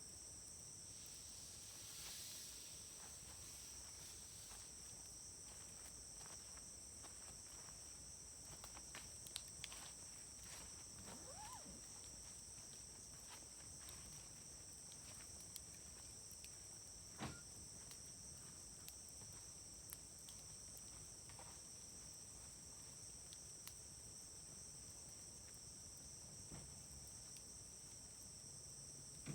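Wood campfire burning quietly, with scattered faint crackles and one sharper pop about seventeen seconds in, and a brief rising whistle near the middle. Behind it, a steady high-pitched chorus of insects.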